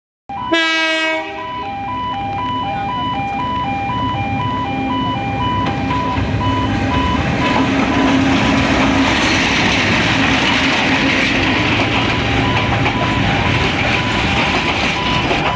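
Level crossing warning alarm beeping in an alternating two-tone pattern while the Karnaphuli Express passenger train rolls past, its rumble and wheel-on-rail noise building and staying loud through the second half. A brief horn note sounds at the very start.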